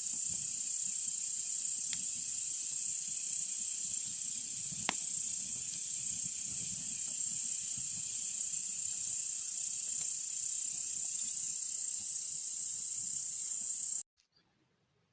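Campfire crackling, with a few sharp pops, over a steady high-pitched insect chirring. All of it cuts off abruptly about 14 seconds in.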